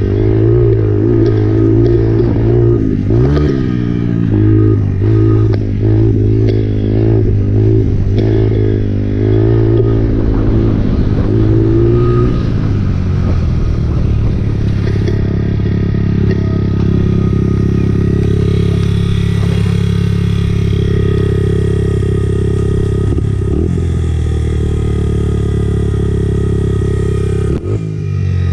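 Honda CRF four-stroke dirt bike engine being ridden hard, its revs rising and falling again and again through the first half as the throttle is opened and shut. It then runs at a steadier pitch, with a short drop near the end.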